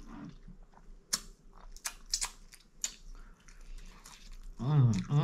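A person chewing and biting food, with a run of sharp crunchy clicks a second or two in. A woman's voice comes in near the end.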